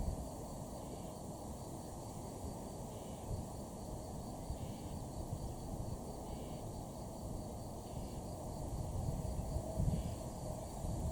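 Outdoor ambience: a faint animal call repeated about every one and a half to two seconds over a steady hiss, with low rumbling gusts growing toward the end.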